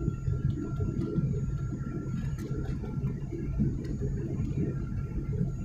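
Airliner cabin noise: a steady low rumble of engines and airflow, with a faint steady high whine.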